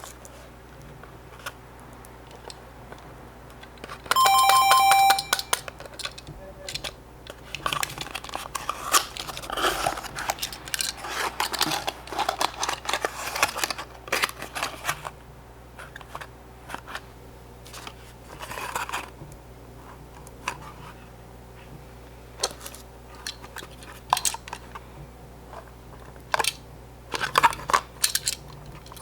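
Die-cast toy cars and their small cardboard boxes being handled: scattered light clicks, taps and paper rustling. About four seconds in, a short, loud bell-like chime rings for about a second.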